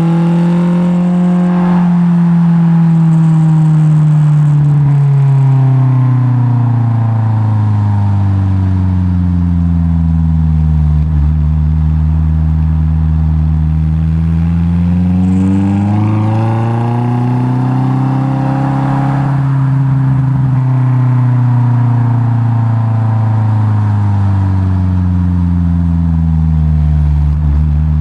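Honda S2000's four-cylinder engine heard at the tailpipe through a Spoon N1 single-exit exhaust with a decat pipe. The note is loud and steady, with the engine speed sinking slowly, climbing again past the middle, then easing back down.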